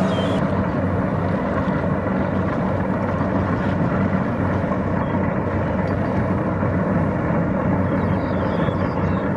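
Kubota DC-70 Plus rice combine harvester running steadily at a constant engine pitch while harvesting.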